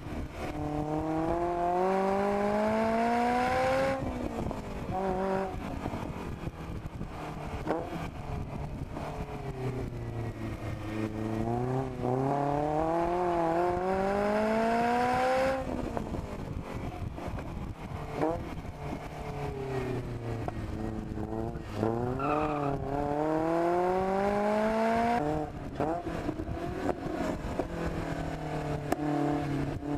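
Lotus Elise's engine, heard onboard, accelerating hard three times. Each time the pitch climbs steadily for several seconds, then the sound drops suddenly as the throttle is lifted or the next gear goes in. Between the pulls the note falls away as the car slows for bends.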